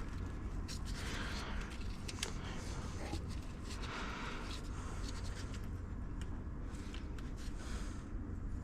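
Hand tools clicking and scraping against metal engine fittings, a scatter of short sharp ticks, over a steady low rumble.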